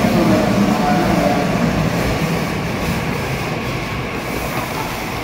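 Meitetsu 9500 series electric train pulling into an underground station and braking to a stop. Its running rumble and motor tones fade steadily as it slows.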